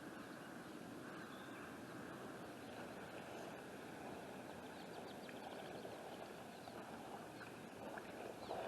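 Floodwater flowing across a road in a steady rush, with a few faint short ticks partway through.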